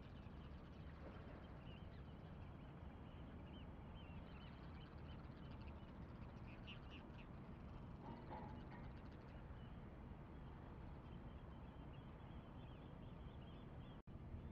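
Faint birds chirping and calling over a low steady background rumble, with a louder call about eight seconds in.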